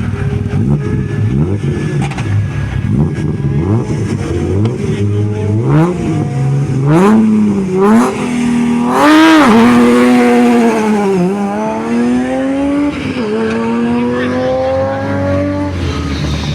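Rally car engine at the start line: the revs are blipped up and down a few times, then the car launches about nine seconds in at its loudest and accelerates away. The pitch climbs through the gears, with two upshifts.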